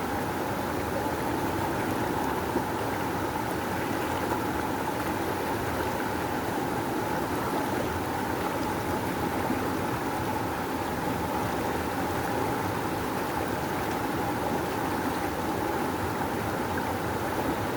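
River water rushing steadily over rocks, a constant even wash of noise with no breaks.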